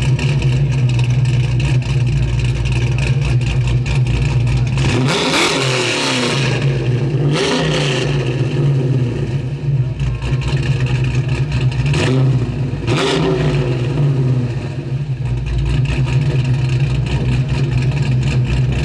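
Car engine running steadily, with a few brief louder surges.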